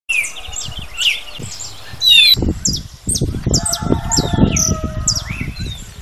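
Several birds chirping and calling in quick, short notes that glide up and down in pitch. About two seconds in, the sound changes abruptly and low thumping rumbles run under the chirps.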